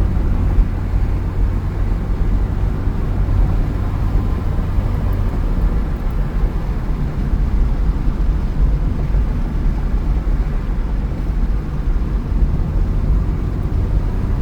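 Steady road and engine noise of a car driving, heard from inside the cabin, with a deep rumble.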